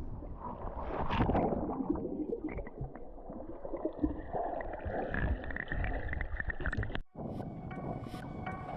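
Seawater sloshing and gurgling around a GoPro action camera at the water's edge, an uneven rumbling wash with small crackles.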